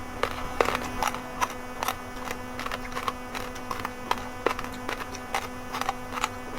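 Raw red and white rice grains crunched between the teeth close to the microphone: irregular sharp cracks several times a second, over a steady electrical hum.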